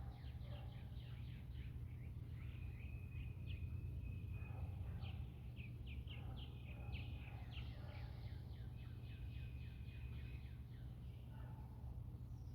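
Songbirds chirping and singing, with runs of quick short notes and a few held whistled notes, over a steady low rumble.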